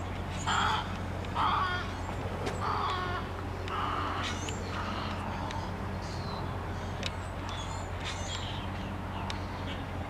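Birds giving harsh, crow-like calls, four of them in the first four seconds and each fainter than the last, with smaller birds chirping faintly throughout.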